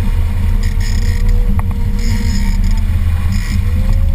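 Boat motor running with a steady low drone and a faint wavering tone, with bursts of hiss that come and go over it.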